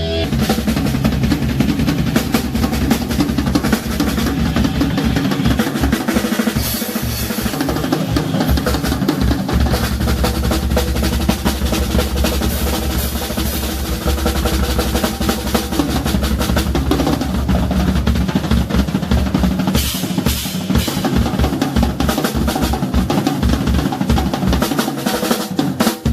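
Live rock band playing heavy-metal music, with the drum kit loudest: fast snare and bass-drum hits and rolls over sustained electric guitar and bass.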